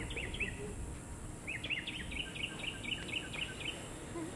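A bird singing quick runs of short, repeated down-slurred chirps: a brief burst at the start, then a longer run from about a second and a half in, over steady outdoor background noise.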